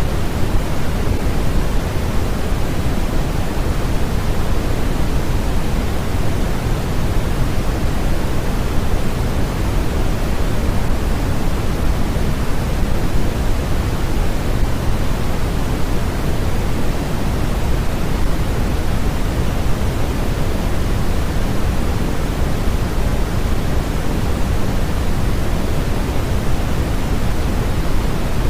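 Steady synthetic white noise: an even, unchanging hiss, heavier in the low end than in the highs.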